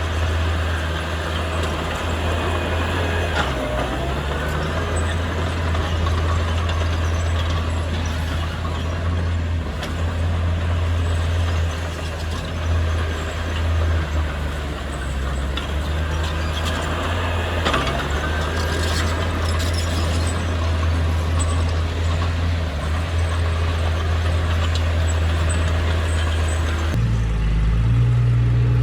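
Heavy diesel engine running steadily, with a few short high squeals and knocks over it. Near the end the sound changes abruptly to a deeper, steadier engine note.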